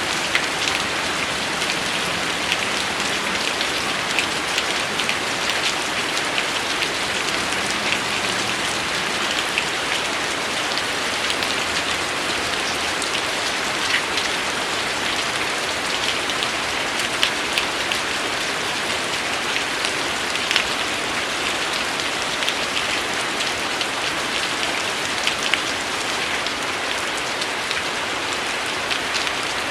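Steady rain falling, an even hiss with frequent sharp ticks of single drops striking close by.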